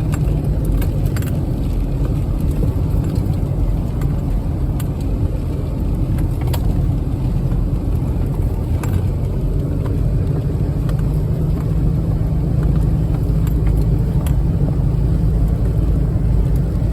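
Off-road vehicle driving along a rocky trail: a steady low engine and drivetrain rumble with scattered short knocks.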